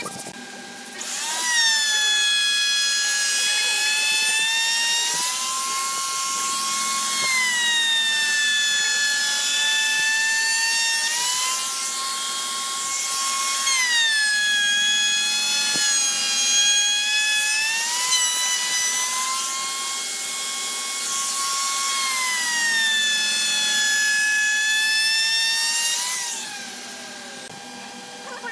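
High-speed electric power tool running on wood, its motor whine sagging and recovering in pitch several times as it bites in and eases off. It starts about a second in and spins down near the end.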